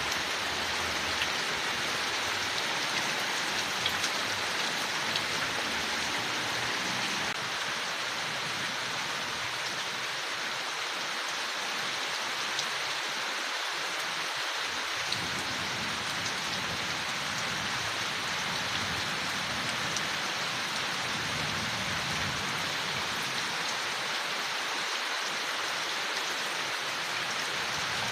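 Steady rain falling on leaves, an even hiss with faint scattered drop ticks.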